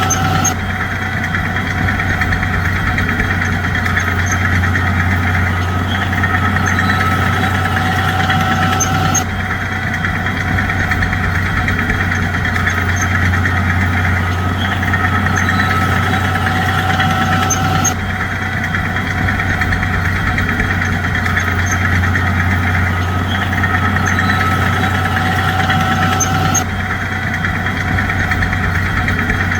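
Bulldozer's diesel engine running steadily with a deep drone, its tone shifting abruptly a little about every nine seconds.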